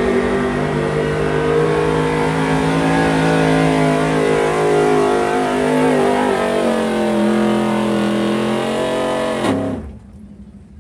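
Gas pickup truck engine held at high revs while pulling the sled, its pitch dipping and stepping a few times, then cutting off sharply about nine and a half seconds in as the run ends.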